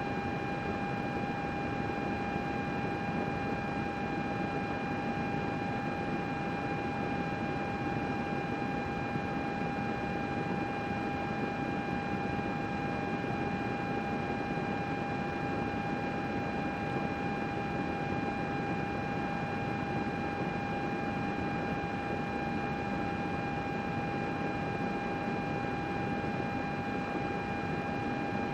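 Computer running: the steady whoosh of its cooling fans with a constant high-pitched whine on top, unchanging throughout.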